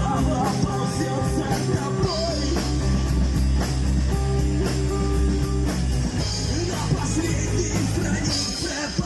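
Rock song with electric guitar, bass and drums, and a sung vocal.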